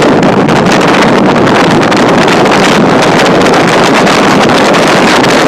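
Loud, steady roar of a tornado's rear-flank-downdraft winds, somewhere over 100 mph, blasting against a closed car, heard from inside the cabin.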